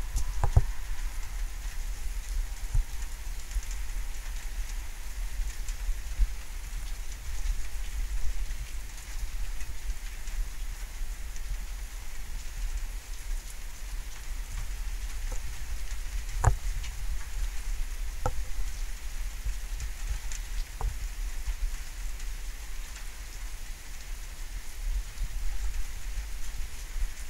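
Steady rain falling during a thunderstorm, with a few sharp taps scattered through it.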